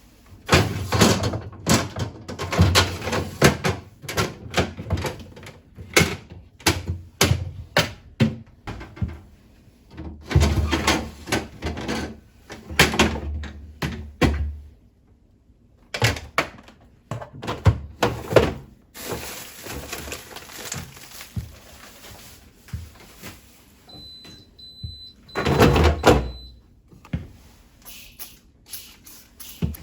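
Refrigerator cleaning: shelves, containers and items being handled, giving a run of knocks, thunks and clatters with longer rubbing noises between them. A short, thin, steady high tone sounds about 24 seconds in.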